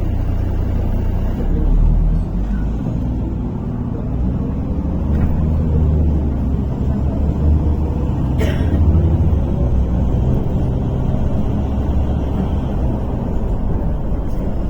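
Cabin sound of a MAZ-103 city bus under way: engine and drivetrain running with a low rumble, the engine note rising and falling, and a single sharp knock about eight and a half seconds in.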